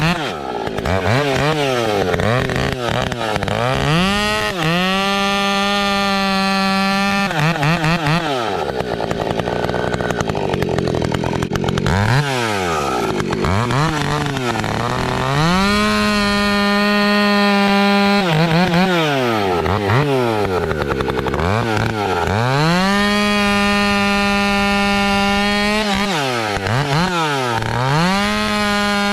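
A 70cc two-stroke chainsaw cutting firewood. It is revved repeatedly, rising and falling between idle and full throttle, and holds a steady high pitch at full throttle for several seconds at a time.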